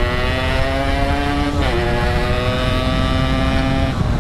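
Yamaha RX-King two-stroke single-cylinder motorcycle engine pulling hard, its pitch climbing slowly, with an upshift about a second and a half in and another near the end, where the pitch drops and starts rising again. Wind rumble on the microphone underneath.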